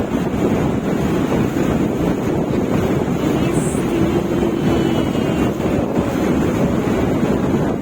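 Wind buffeting the microphone over a steady wash of ocean waves, a loud unbroken rumble with no distinct strokes.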